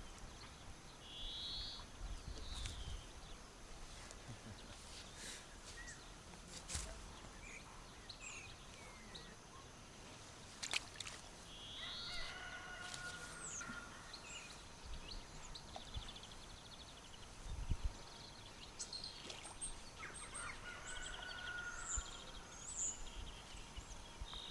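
Wild birds calling and chirping now and then over a faint outdoor background, with a few sharp clicks and low thumps.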